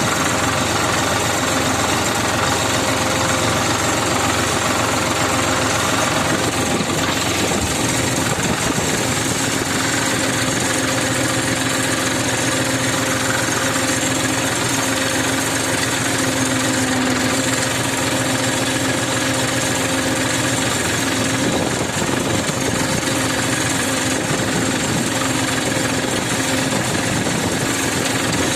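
Tractor engine running steadily with a rapid knocking clatter.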